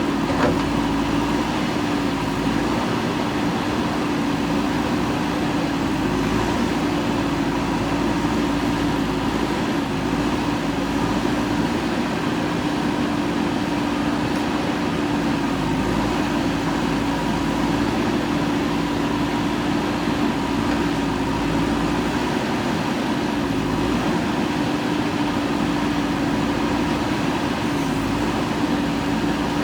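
JCB 3DX backhoe loader's diesel engine running steadily under work, with a constant whine whose pitch dips slightly every few seconds.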